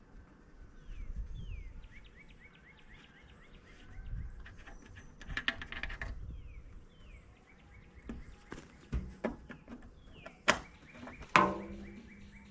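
Birds chirping in the background, with a quick run of short chirps in the first few seconds. Then a series of sharp metal clicks and knocks from tools and parts being handled during disassembly, the two loudest knocks a little after ten and eleven seconds in.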